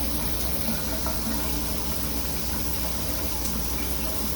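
Shower water running steadily.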